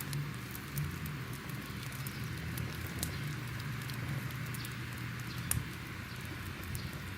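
Crackling fire: a steady hissing bed with a low rumble and scattered sharp pops and crackles, a few of them louder, such as one about five and a half seconds in.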